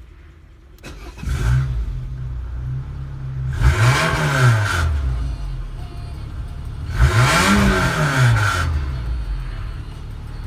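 Renault Espace III's 2.0-litre F3R768 inline-four petrol engine starting about a second in and settling to idle. It is then revved up and let fall back twice, each rev lasting about a second and a half.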